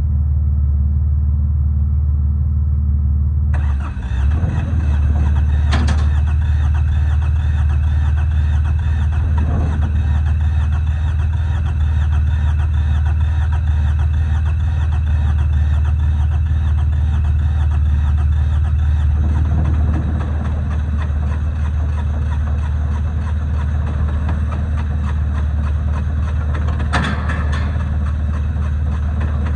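Yanmar YM146 tractor's diesel engine running steadily. About three and a half seconds in it grows louder and brighter, then eases off slightly about twenty seconds in. Two short clacks sound, one near six seconds in and one near the end.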